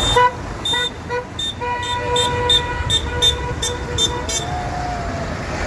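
A vehicle horn tooting in a series of short beeps, about two or three a second, with one longer blast among them, over a steady low engine rumble.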